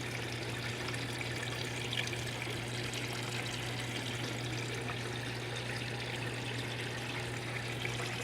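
Water trickling and pouring steadily into a fish tank, over a steady low hum.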